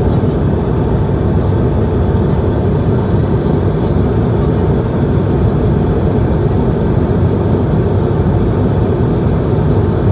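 Steady cabin noise of an Airbus A220-100 airliner in flight: a loud, even, low rumble of engines and airflow around the fuselage.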